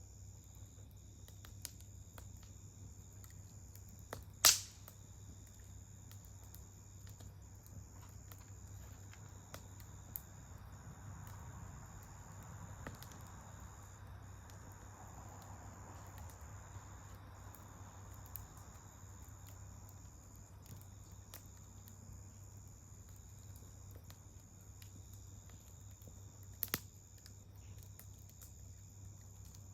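Wood campfire crackling faintly with scattered small clicks, and a sharp pop about four and a half seconds in and a quick double pop near the end.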